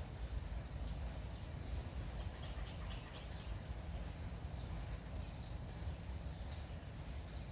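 Light, steady rain with a low rumble underneath, and small birds chirping in short calls now and then, mostly in the middle stretch.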